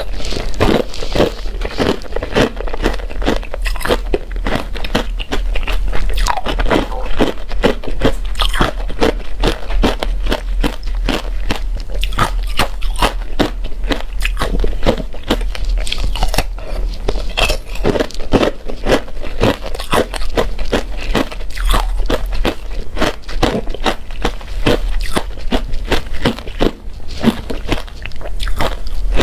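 Close-miked crunching as a person bites and chews hard, crunchy ice, many irregular crunches one after another, over a steady low hum.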